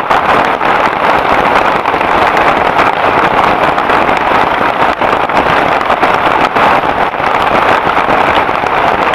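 Heavy rain in a steady, loud downpour, a dense hiss of drops with no break.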